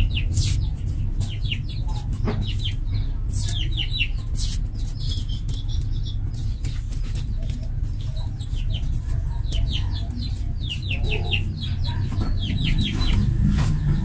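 Birds calling in quick series of short high chirps, with chickens clucking, over a steady low rumble; a few sharp clicks stand out here and there.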